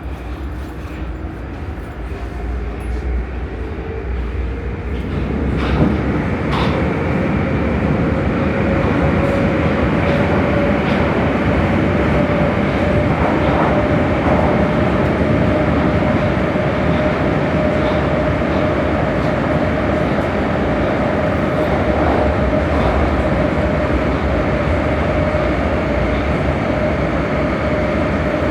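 Prague metro train accelerating away from a station and then running at speed through the tunnel. A motor whine rises in pitch over the first several seconds and then holds steady over a continuous rumble of wheels on rail.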